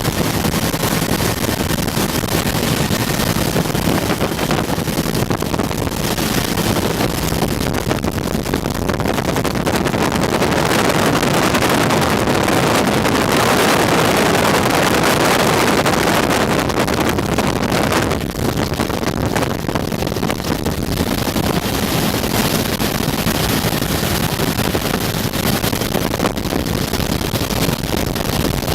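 Bell UH-1 Huey helicopter in flight, heard from the open-doored cabin: a steady din of rotor and turbine, with wind rushing across the microphone. It swells louder for several seconds in the middle.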